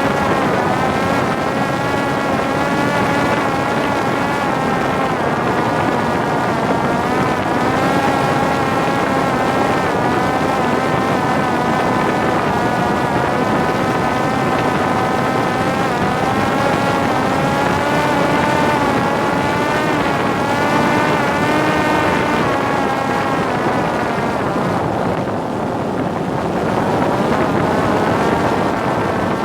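Parrot Disco fixed-wing drone's electric motor and rear propeller whining in flight over a rush of wind on the microphone, the pitch wavering up and down with the throttle. Near the end the motor eases off briefly, then picks up again.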